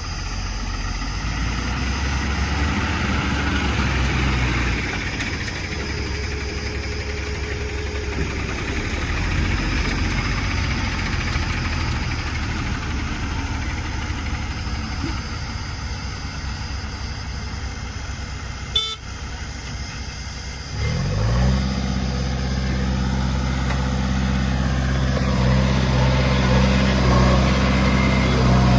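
Diesel engine of a JCB backhoe loader at work, running steadily, then revving up about two-thirds of the way through and holding the higher speed. A single sharp click shortly before the rev-up.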